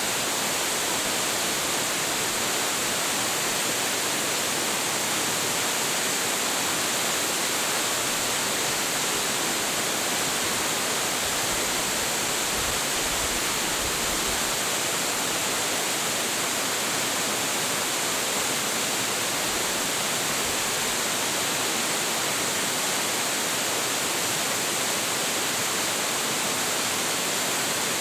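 Large waterfall with a heavy flow of water, pouring down in a steady, even roar of falling water.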